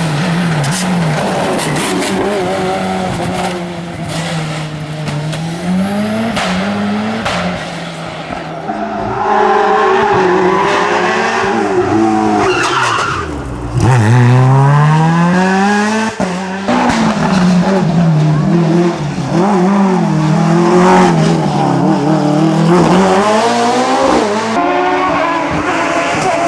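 Hill-climb race car engine revving hard, its pitch climbing under acceleration and dropping at each gear change or lift, with one deep drop and steep climb about halfway through; tyres squeal and skid along with it.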